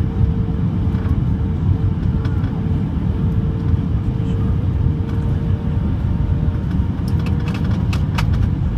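Cabin noise inside an Airbus A319 airliner during landing: a steady, loud, low rumble of engines and airflow with a faint steady hum. A few short clicks or rattles come near the end.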